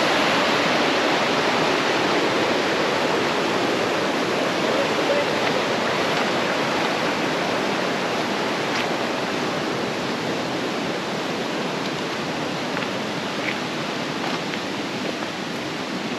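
Creek water rushing steadily over rocks, slowly growing a little fainter.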